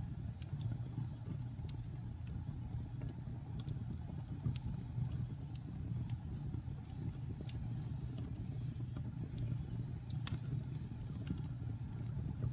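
Wood fire crackling in a fireplace: scattered sharp pops and snaps, several a second, over a steady low rumble of the burning fire, with the loudest pop about ten seconds in.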